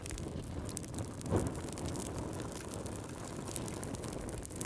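Wood fire crackling in a fireplace: scattered sharp pops and ticks over a steady low rumble, with one louder pop about a second and a half in.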